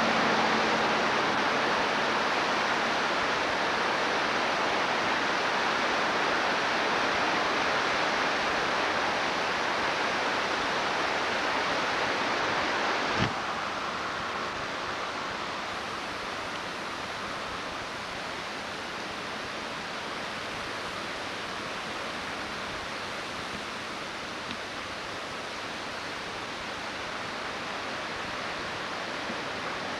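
Rushing floodwater of a swollen creek: a steady, even roar of water. About 13 seconds in there is a click and the rush suddenly drops to a quieter level.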